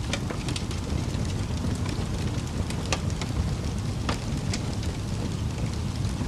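Wood fire burning steadily: a low rumbling hiss of flames with sharp crackles and pops of burning logs scattered irregularly throughout.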